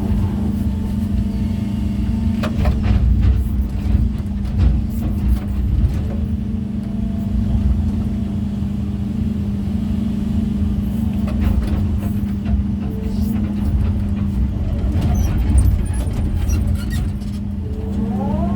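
Heavy diesel machine engine, most likely an excavator placing stones, running steadily with a constant hum. Occasional knocks and clatters come through, and near the end the pitch rises as the engine takes load.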